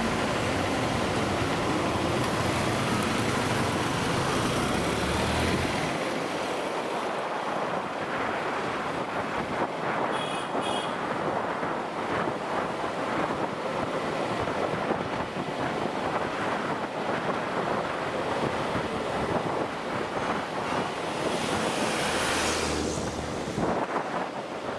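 Wind rushing over the microphone with the road and engine noise of a moving motorcycle. The low rumble is heavier for the first six seconds, then lighter, with a brief high beep about ten seconds in and a swell of rushing noise near the end.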